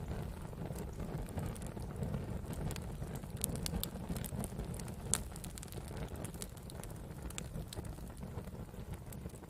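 Campfire burning: wood crackling with scattered sharp pops over a steady low rumble, with one louder pop about halfway through.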